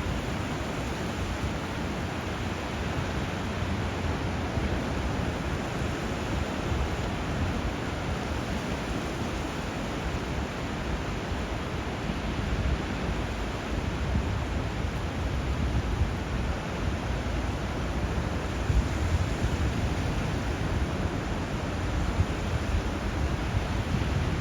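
Steady rush of water where a river runs into the sea, surf and flowing river blended into an even hiss with a low rumble underneath.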